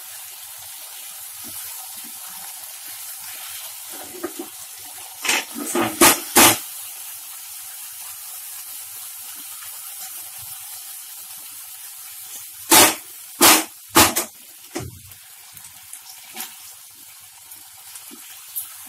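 Prawns, onions and capsicum frying in sauce in a nonstick pan, a steady sizzle, while being stirred with a silicone spatula. There are three loud knocks about five to six seconds in and three more around thirteen seconds.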